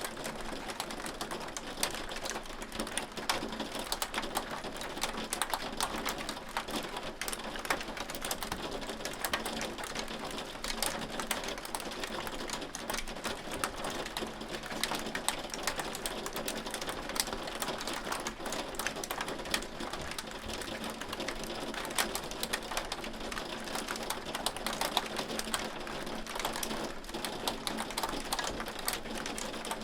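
Hail falling steadily, a dense patter of many small sharp ticks over a constant hiss.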